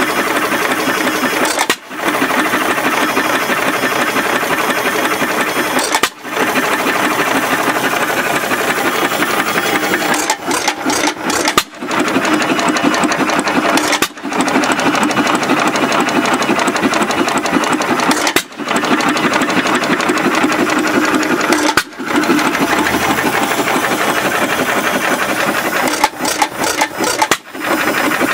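Rebuilt Alamo Empire antique hit-and-miss stationary engine running steadily, a fast even chuffing and rattle of firing and valve gear, broken every few seconds by a brief drop in sound.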